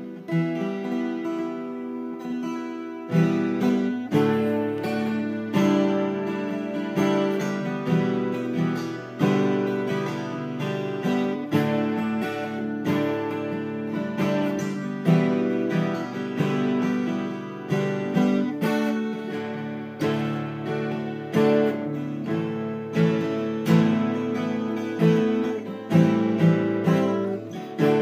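Seagull S12 twelve-string acoustic guitar strummed in drop D tuning, playing a chord progression with regular, sharp strums.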